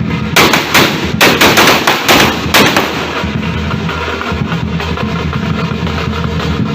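Firecrackers going off in a rapid run of about a dozen sharp bangs over the first few seconds, then stopping, leaving a steady low background sound.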